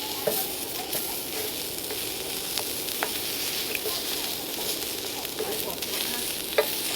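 Meat sizzling steadily over a campfire, with small scattered pops and one sharper click near the end.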